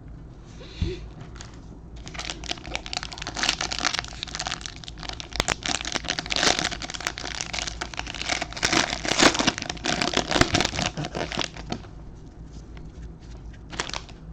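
Plastic wrapper of a trading card pack being torn open and crumpled, a dense crinkling that lasts about ten seconds. There is a single knock about a second in.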